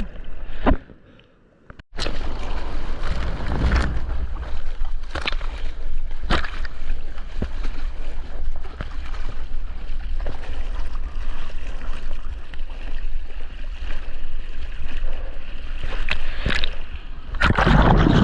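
Sea water sloshing and splashing close around a waterproof action camera in the surf, with sharp splashes every second or two. Nearly quiet for about a second near the start, and a louder rush of water near the end.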